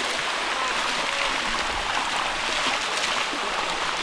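Water rushing steadily down a waterfall cascade, an even hiss.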